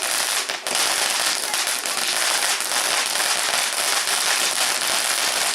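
A firework crackling: a fast, unbroken stream of sharp little pops that keeps an even loudness.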